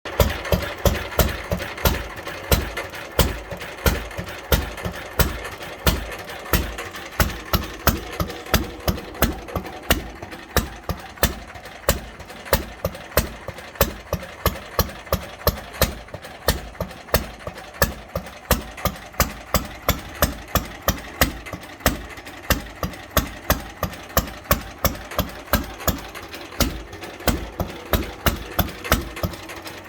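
Bernard W0 single-cylinder stationary engine running steadily at a slow idle on its first start-up, each firing stroke a distinct, regular exhaust beat.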